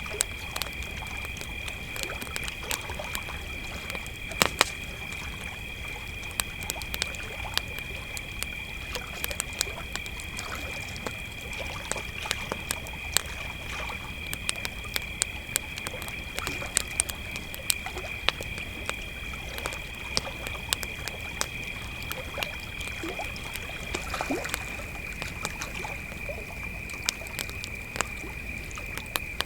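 Crickets trilling steadily at two pitches, the higher one stopping near the end, over a campfire crackling with frequent sharp pops.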